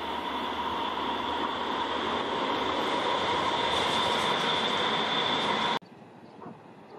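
Electric multiple-unit commuter train passing close by, a steady rumble of wheels on rail with a high-pitched whine over it, growing louder as it nears. It cuts off abruptly near the end, leaving a much quieter outdoor background.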